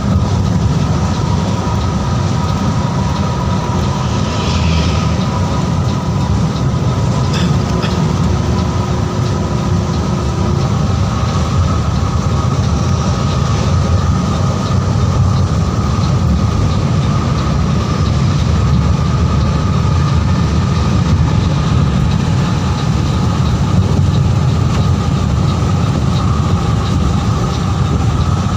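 Steady drone of a Mercedes-Benz OH 1626 coach on the road: its engine and road noise.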